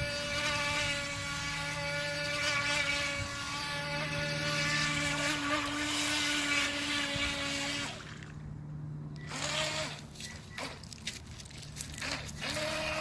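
Small electric RC boat motor whining steadily as the boat runs across the water. About eight seconds in it cuts out, then revs back up in short rising whines near the end, as it bogs down in grass and then picks up again.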